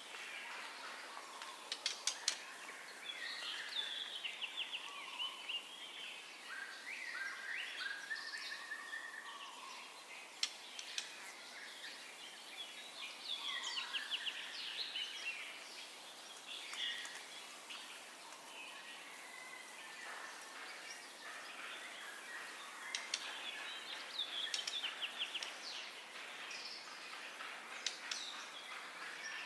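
White-rumped shama singing: varied phrases of whistles, rapid trills and sharp clicks, separated by short pauses, over a faint steady hiss.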